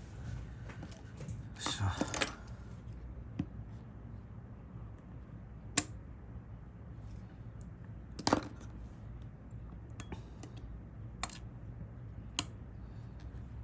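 Scattered sharp clicks and taps of small tools and parts being handled at a repair bench: a quick cluster about two seconds in, then single clicks every few seconds, over a steady low hum.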